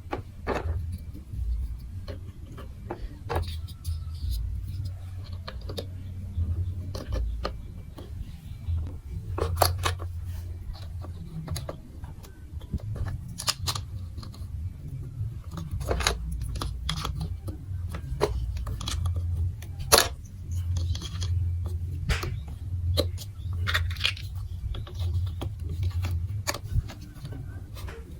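Hard plastic clicks and clatters of marble run building blocks being handled, some sharp and several seconds apart, over a low rumble.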